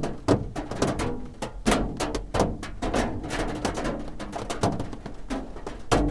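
Raindrops drumming on a roof: an irregular run of sharp knocks, several a second, some louder than others.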